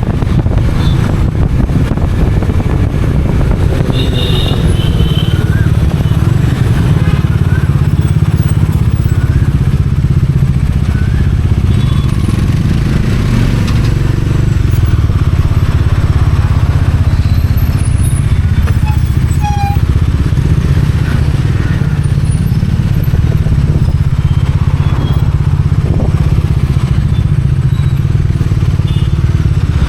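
Bajaj Dominar 400's single-cylinder engine and exhaust running steadily as the motorcycle rides through city traffic, a continuous low drone with only small changes in pitch.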